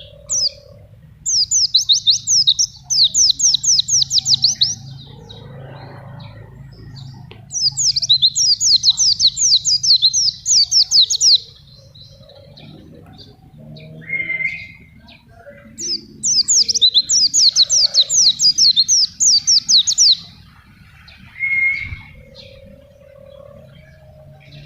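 A pleci (white-eye) singing: three long, fast trills of high, rapidly repeated down-sweeping notes, each lasting several seconds, with a few short, lower calls in the gaps between them.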